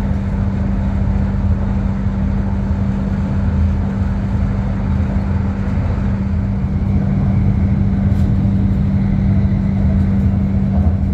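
Airport Rail Link electric train running at speed, heard from inside the carriage: a steady rumble with a constant low hum.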